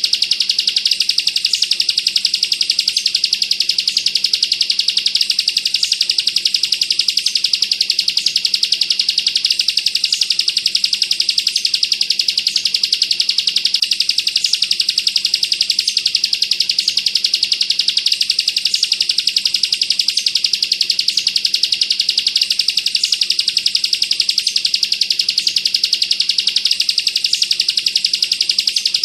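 Bar-winged prinia (ciblek) singing a continuous, very rapid, high-pitched trill (the 'bren' song), unbroken throughout, with a faint higher note recurring about once a second.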